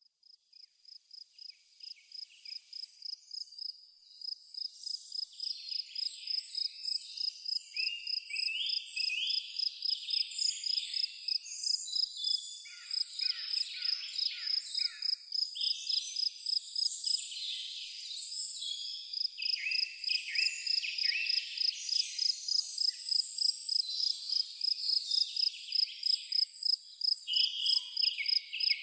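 Crickets chirping in an even, rapid pulse on one high pitch, with several birds singing varied chirps and trills over them; the sound fades in over the first few seconds.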